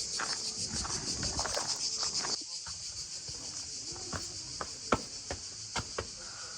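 Cicadas chirring in a steady, high, pulsing chorus that drops in level about two and a half seconds in. Scattered sharp clicks and taps sound underneath it.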